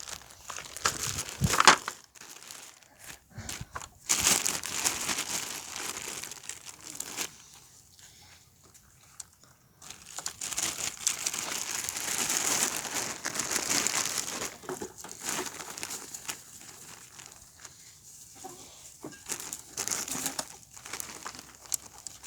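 Plastic bread bag crinkling and rustling as it is handled, in two long stretches with a quieter pause between them, and a sharp knock about a second and a half in, the loudest sound.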